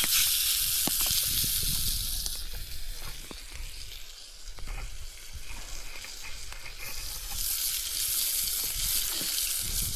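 Chunks of beef searing in hot oil in a pan, sizzling with small spattering pops. The sizzle is loud for the first couple of seconds, dies down in the middle and swells again near the end.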